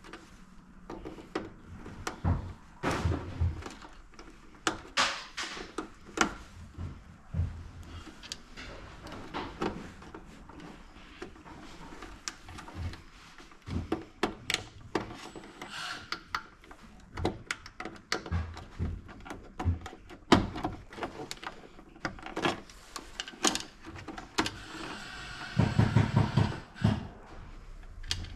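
Tools and metal hardware being handled during garage door opener work: scattered knocks, clicks and clanks. Near the end there is a brief burst of rapid rattling strokes.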